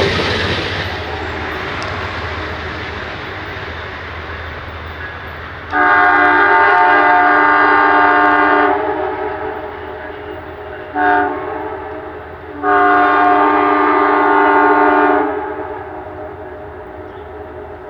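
Locomotive multi-chime air horn sounding a long blast, a short blast and another long blast over the low rumble of a train moving on the rails.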